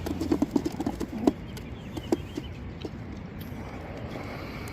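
Young racing pigeons in a transport basket cooing, with scattered clicks; the calls are busiest in the first second and a half, then thin out.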